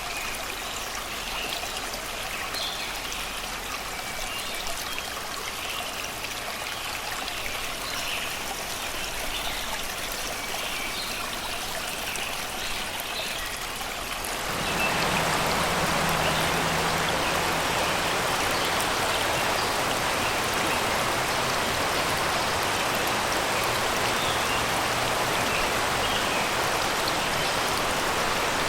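Shallow river water flowing and babbling over rocks, with birds singing in the background. About halfway through, the water sound abruptly becomes louder and fuller.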